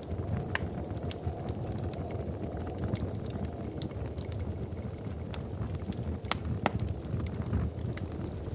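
Wood fire burning in a fireplace: a steady low rumble of flames with irregular sharp crackles and pops, a few louder pops in the second half.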